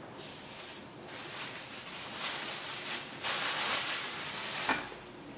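Wrapping material rustling and crinkling as it is handled, in uneven swells, with a short click near the end.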